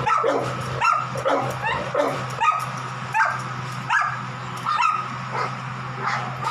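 A dog barking and yipping over and over in short, high calls, roughly one every half to three-quarters of a second, easing off a little toward the end.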